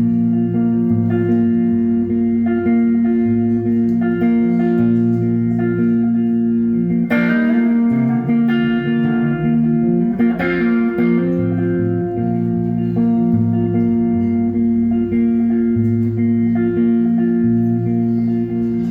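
Instrumental break of a song played live by a band: guitars playing sustained chords over a moving bass line, with no singing.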